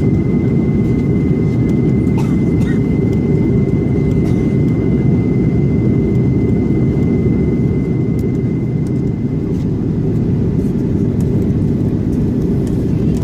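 Steady low rumble of jet engines and airflow inside the cabin of an Airbus A330-300 airliner, with a thin steady high tone above it and a few faint clicks.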